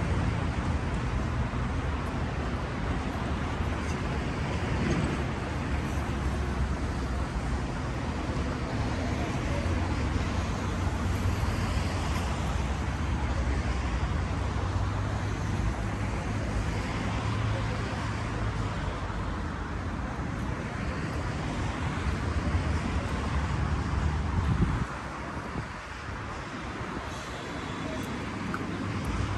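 Steady road traffic noise with a low rumble, which drops away suddenly about twenty-five seconds in.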